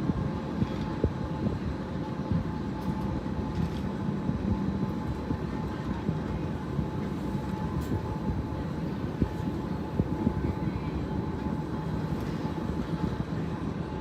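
Swiss Glacier Express train running: a steady low rumble dotted with small clicks and rattles, with a faint steady whine above it.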